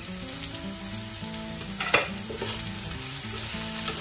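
Sliced cucumber sizzling in a hot nonstick frying pan as the lid comes off and a spatula stirs it, with one sharp clack about two seconds in. Soft background music plays underneath.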